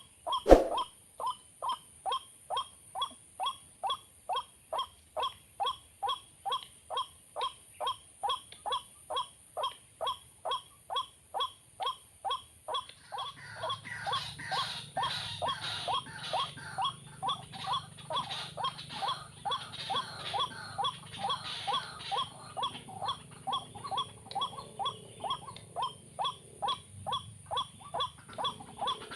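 White-breasted waterhen call, a short pitched note repeated very evenly about two and a half times a second, the lure sound used to trap these birds. A sharp knock comes about half a second in, and from about halfway a rougher noise joins the calling.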